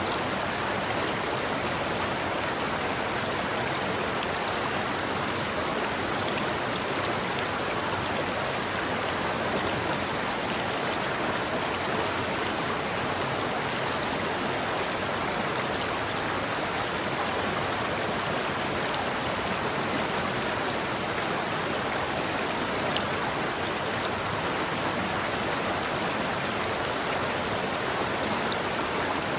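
A river flowing over rocks, a steady rushing and burbling of water with no change in level.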